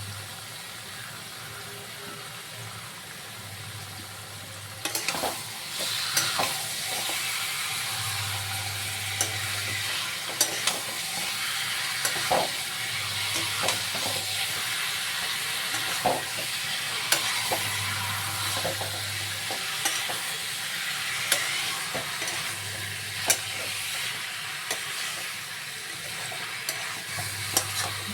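Chicken pieces sizzling as they fry in a pan, stirred with a spatula that clicks and scrapes against the pan. The sizzle swells about five seconds in.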